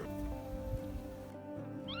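Background music with steady held notes; right at the end a cat begins a meow that steps down in pitch.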